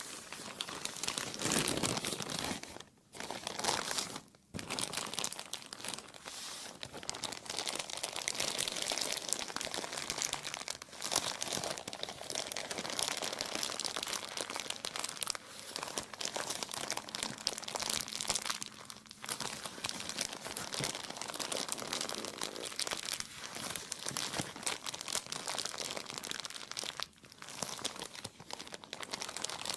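Plastic being crumpled and crinkled continuously, a dense crackling rustle with brief lulls about three and four and a half seconds in and again near the end.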